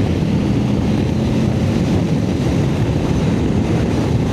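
Motorcycle being ridden: steady wind noise on the microphone over the engine's low, even drone.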